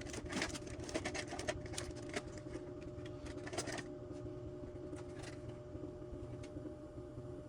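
Small saw parts being handled on a workbench: a run of quick clicks and light clatter over the first half, thinning out after, over a steady faint hum.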